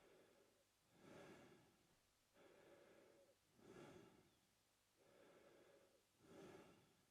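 A man breathing slowly through his mouth, quiet and close: about three breath cycles, each a longer, even breath followed by a shorter, louder, airier one.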